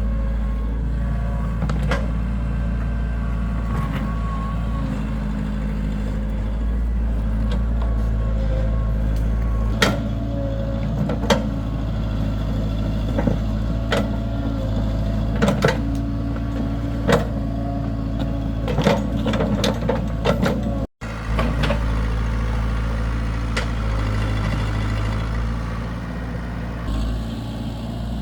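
Heavy diesel construction machinery running steadily, with sharp metallic clanks and knocks every second or few. The sound cuts out for an instant about two-thirds of the way through.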